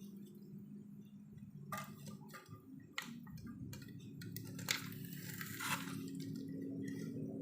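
Irregular clicks and a stretch of scraping, as of tools and parts being handled at a workbench, over a steady low hum.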